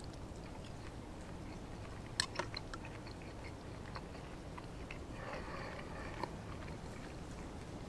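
A person quietly chewing a mouthful of bacon explosion, with a few small clicks about two seconds in.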